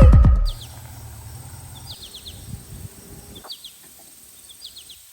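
A loud music track ends about half a second in. After it a small songbird repeats a short phrase of a few quick, high, falling chirps about once a second, over a faint steady high-pitched hum.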